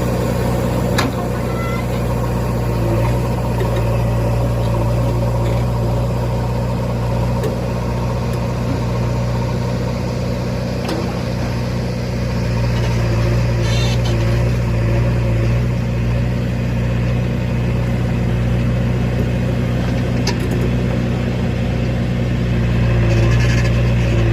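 Heavy diesel engine running steadily at a constant speed, with a couple of faint knocks.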